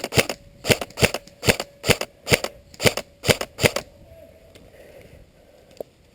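Airsoft gun firing single shots in quick succession, about nine sharp cracks two or three a second, stopping about four seconds in; one faint click follows near the end.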